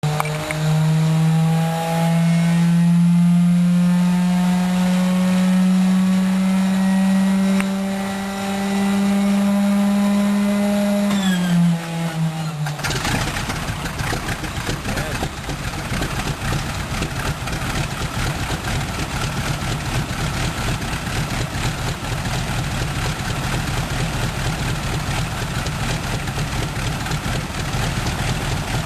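Harvard Mk IV's Pratt & Whitney R-1340 Wasp nine-cylinder radial engine being started: the starter whines, slowly rising in pitch, then drops as it cranks the engine, which catches about 13 seconds in and runs with an uneven, pulsing beat.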